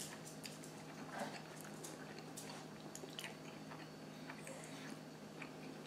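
A person chewing a mouthful of steak, egg and cheese bagel sandwich: faint, irregular small clicks of chewing, one a little louder about a second in, over a steady low hum.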